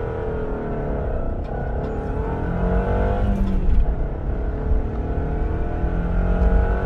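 Naturally aspirated Subaru flat-four engine under hard acceleration with a manual gearbox: the revs climb, drop at a gear change about three and a half seconds in, then climb again. The car runs with a freshly replaced downstream catalytic converter after the old one clogged and melted, and it no longer sounds rough.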